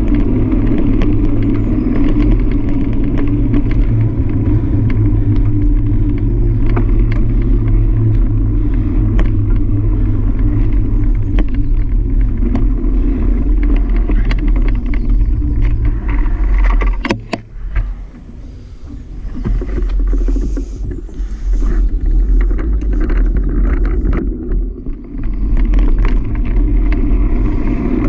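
Steady wind rumble and road noise on a GoPro Hero 5 carried on a moving bike. It drops away for a couple of seconds about two thirds of the way through, just after a sharp click, then comes back.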